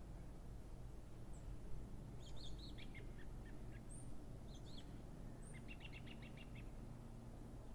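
Small birds chirping in short, high calls, with a quick run of rapid chirps around the middle, over a steady low background rumble.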